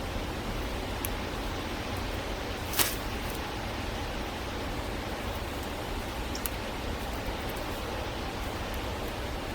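Steady, even hiss of background noise, with a few faint ticks and one sharper click about three seconds in.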